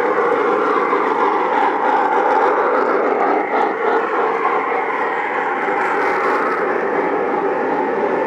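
O scale model train pulling a long, heavy string of cars along the track, a steady running rumble of wheels on rail with no breaks.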